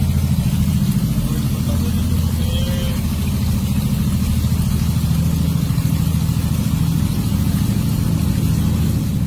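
A vehicle engine running steadily: a low, even rumble with a fast pulsing to it.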